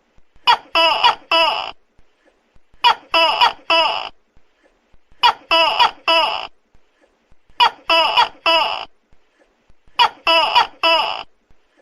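Tokay gecko calling loudly, its calls coming in groups of three, one group about every two and a half seconds.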